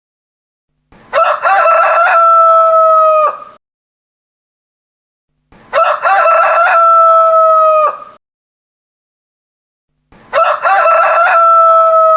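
Rooster crowing three times, about four and a half seconds apart, with dead silence between. Each crow is a few short broken notes that lead into one long held note, which drops away at the end.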